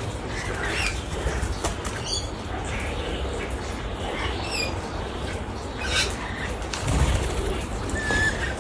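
Birds giving short squawks and chirps, with wing flapping, over a steady low rumble.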